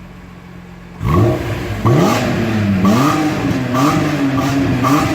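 BMW E46 M3's S54 straight-six breathing through a Topgear aftermarket rear silencer (backbox), revved in a series of short throttle blips, each rising and falling in pitch. The blips start suddenly about a second in, after a quieter steady hum.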